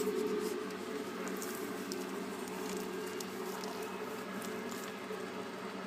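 Week-old puppies squirming and suckling: faint soft wet clicks and rustles, scattered irregularly, over a steady low hum.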